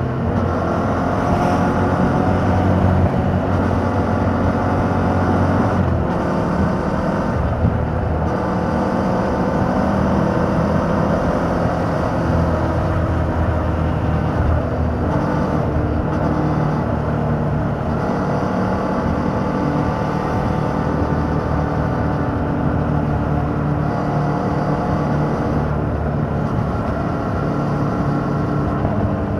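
Yamaha MT-07's 689 cc parallel-twin engine running under way through its stock exhaust. The engine pitch holds a cruising pace with small rises and falls, and shifts about six seconds in, over wind and road noise.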